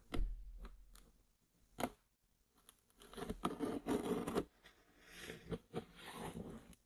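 Close-miked handling of headphone packaging: a sharp tap just after the start and another a little under two seconds in, then two stretches of scratching and crinkling against the box.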